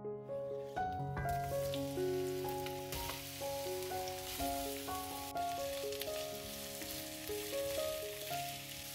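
Food sizzling in a hot frying pan, an even hiss that sets in about a second in, under soft piano background music.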